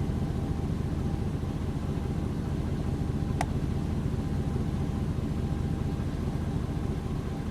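Steady low rumble of a car, with a single sharp click about three and a half seconds in.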